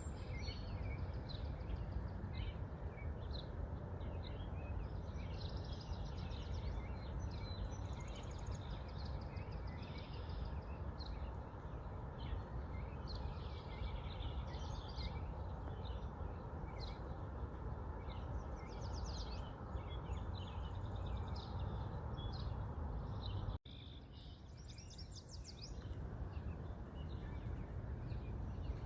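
Many small birds chirping and trilling over a steady low rumble of background noise, with a brief cut about 23 seconds in, after which it is a little quieter.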